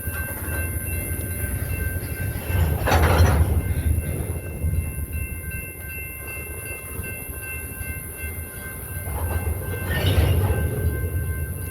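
BNSF freight train's cars rolling slowly past with a steady low rumble and wheel clatter. It swells louder twice, about three seconds in and again near the end.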